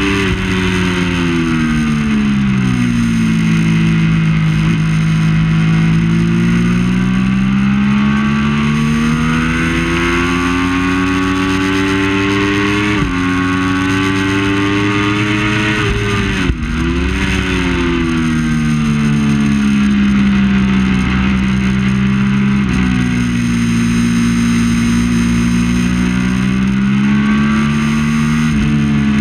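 Triumph Daytona 675's three-cylinder engine at race pace, its pitch climbing and falling over and over as the bike accelerates and slows, with sudden drops in pitch at gear changes.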